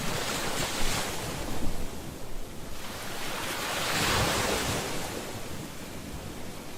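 Ocean waves breaking and washing up the shore, one surge about a second in and a bigger swell peaking around the middle before ebbing away, over a low rumble of surf.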